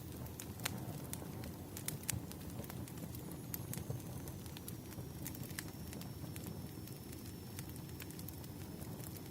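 Campfire burning: a steady low rumble of flames with irregular sharp crackles and pops. A faint thin high whistle comes in about three and a half seconds in and holds.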